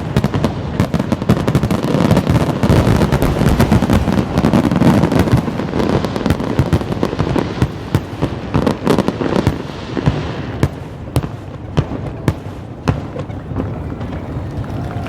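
Aerial fireworks going off: a dense barrage of rapid bangs and crackling that thins after about ten seconds into scattered single pops.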